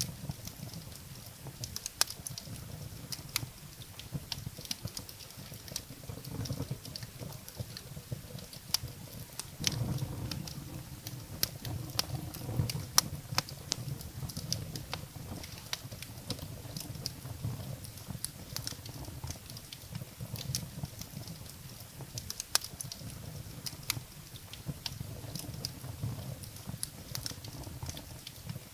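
Wood fire burning in a fireplace: irregular sharp crackles and pops from the burning firewood over a low, steady rumble of the flames.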